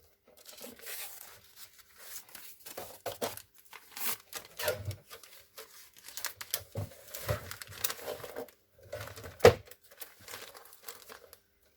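Sheets of paper rustling and crinkling as they are handled, with scattered small clicks and one sharp knock about nine and a half seconds in.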